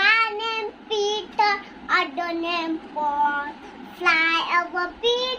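A young child singing a nursery rhyme unaccompanied, in short high-pitched phrases with brief pauses between them.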